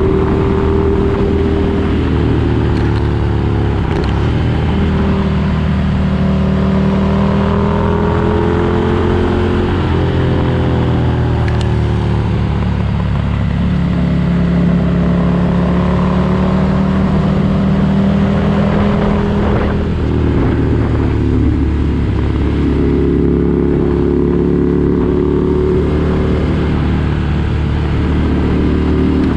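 2019 Ducati Desert Sled's air-cooled L-twin running through an aftermarket Competition Werkes exhaust. The engine note rises and falls slowly several times.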